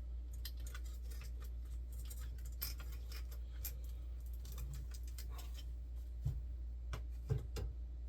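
Small clicks, taps and scrapes of hands fitting parts and a cable into a 3D printer during assembly, with a few sharper knocks in the last two seconds. A steady low hum sits underneath.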